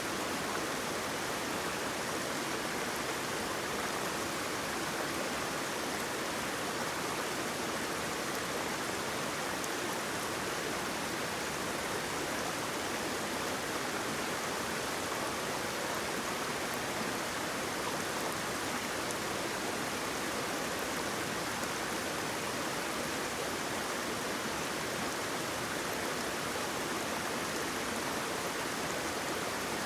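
Water flowing and splashing steadily, a constant even rush with no breaks or single splashes.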